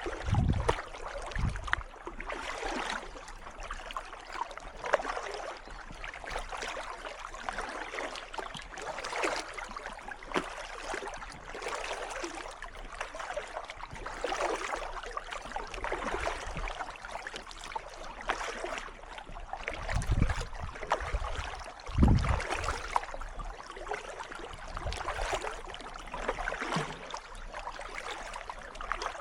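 Kayak paddle strokes splashing and dripping in calm water, a stroke swelling and fading about every two seconds. A few short low buffets of wind on the microphone come near the start and about two-thirds of the way through.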